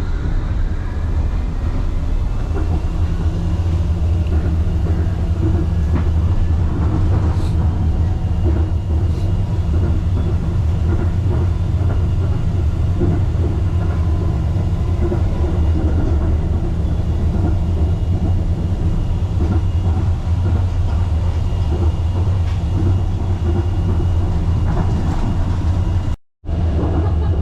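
Wuppertal Schwebebahn suspension railway car running, heard from inside the car: a steady, loud low rumble with faint steady whine tones above it. The sound cuts out for an instant near the end.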